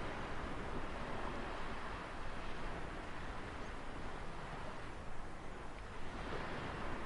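Ocean surf: a steady wash of waves with no distinct breaks, easing slightly about two-thirds through and building again near the end.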